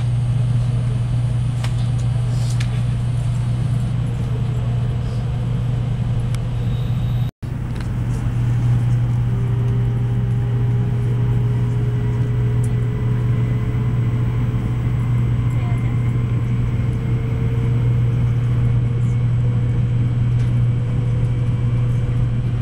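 Cabin noise of an N700A-series Shinkansen train pulling away and gathering speed: a steady low hum with a faint motor whine slowly rising in pitch. The sound cuts out for an instant about seven seconds in.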